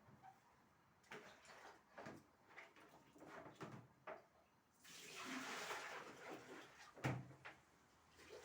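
Faint household handling sounds: scattered light knocks, then a tap running for a couple of seconds, and a sharp click near the end.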